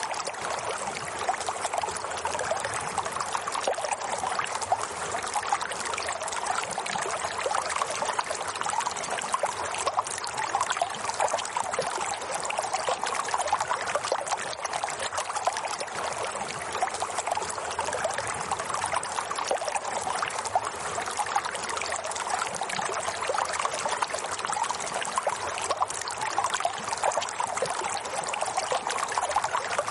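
Steady running water, an even trickling hiss with no pauses or changes.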